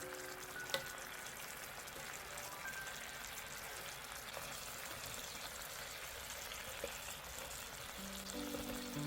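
Food sizzling in a hot frying pan, a steady hiss with a couple of light clicks.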